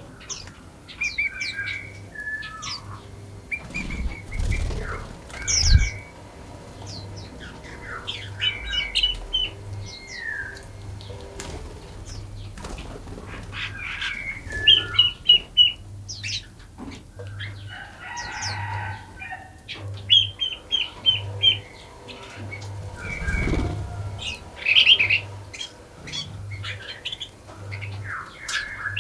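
Several small songbirds chirping and singing together in a forest, with overlapping calls and quick runs of repeated high notes. A few low thuds come about four to six seconds in and again near the 23-second mark.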